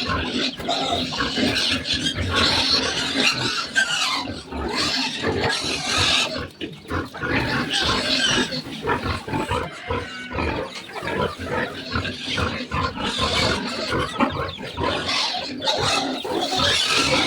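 Several pigs grunting and squealing at once, with no pause.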